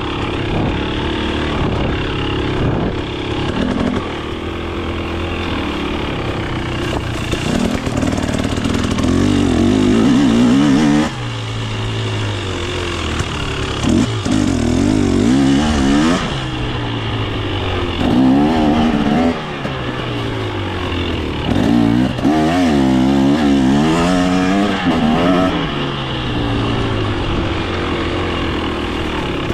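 KTM 250 XC two-stroke dirt bike engine, revved up and dropped back repeatedly, with several sharp throttle bursts that rise and fall in pitch.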